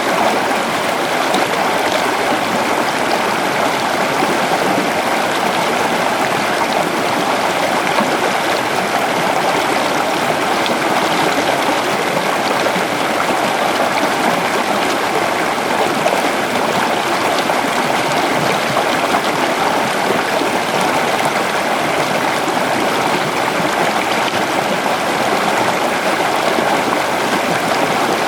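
A river flowing steadily over stones, a constant rushing and babbling of water.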